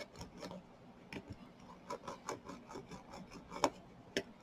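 A diamond-painting brayer rubbed back and forth under firm pressure over the drills on a small plastic keychain, seating them: a faint, irregular scratching with small clicks, and two sharper clicks near the end.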